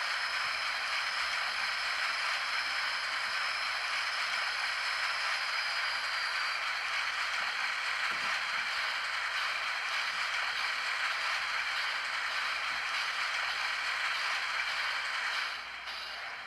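Model steam locomotive sound decoder playing the water syphon effect, a steady loud hiss through the model's small speaker that drops away near the end.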